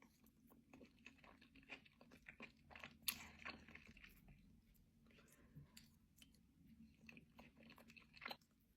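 Faint close-up chewing of a mouthful of food: many small, wet mouth clicks and smacks, one slightly louder about three seconds in.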